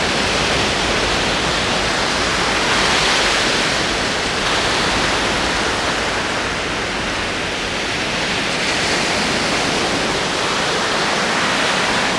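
Ocean waves rolling in: a steady wash of surf that swells gently every few seconds.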